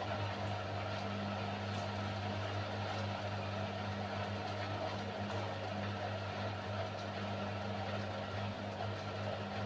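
Beko WMY81283LMB2 washing machine running partway through a 30 °C hand wash cycle: a steady, even hum with a faint tick now and then.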